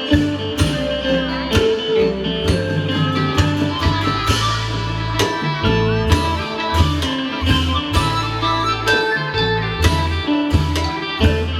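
Isan pong lang folk band playing a lively tune, with melodic plucked-string lines over a steady drum beat and a strong bass line.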